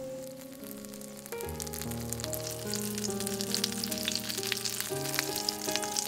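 Oil sizzling and crackling around folded, filled tortillas frying in a nonstick pan, with background music. The crackling gets denser about a second and a half in.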